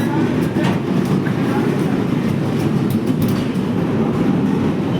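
Passenger train running with a steady rumble and wheels clicking over rail joints, with faint voices underneath.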